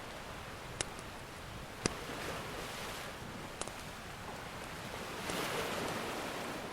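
Ocean surf washing in, with a wave swelling up about five seconds in, over a wood fire crackling with a few sharp pops.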